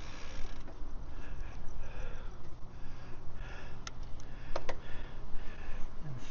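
Bicycle riding: wind rumble on the microphone under a rhythmic mechanical whirring from the bike's drivetrain, with a few sharp clicks near the middle.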